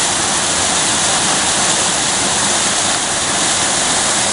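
Phantom Creek waterfall pouring steadily: a loud, even rush of falling water.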